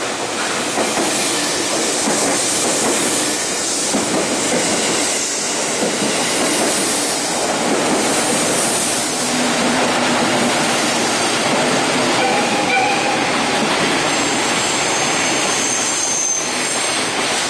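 JR West 221 series electric multiple unit running past close by along a station platform: a loud, steady rush of wheels on rail and running gear. A few thin high-pitched tones appear over it in the last few seconds.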